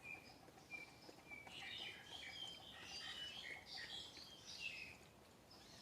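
Faint calls of an unfamiliar bird: a few short thin whistled notes, then from about a second and a half in a busy run of chirps that stops about five seconds in.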